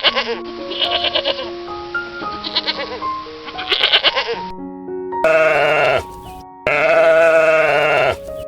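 Two long, wavering sheep bleats about five seconds in, the second one longer, over background music. Before them, a hissy, rasping sound runs with the music.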